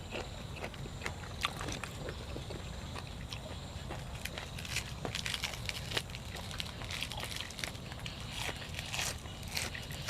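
Close-up eating sounds: irregular crunching and wet chewing of food, the crisp clicks coming thicker about halfway through.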